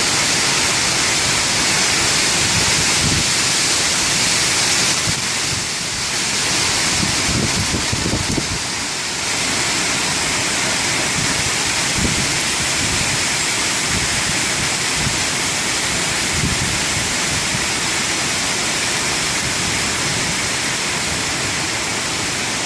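Tropical-storm wind blowing through tall trees, a steady rushing noise that rises and falls with the gusts.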